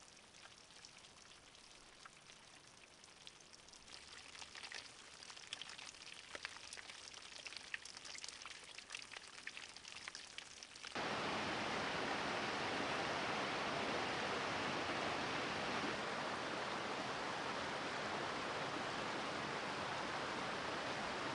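Light patter and trickle of water with many small drips, then about halfway through an abrupt change to the steady, loud rush of a waterfall.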